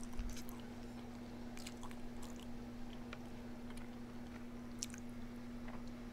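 A person chewing food close to the microphone: scattered sharp clicks and crunching mouth sounds come every half second or so, over a steady low hum.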